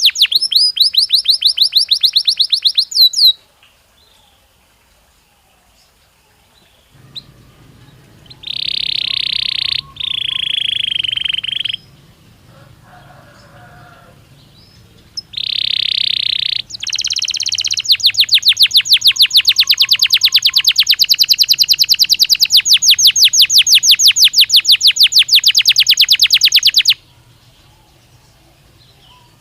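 Belgian canary singing in phrases. A rapid trill stops about three seconds in. After a pause come three long, even, high whistled notes, then a long rapid trill that ends a couple of seconds before the close.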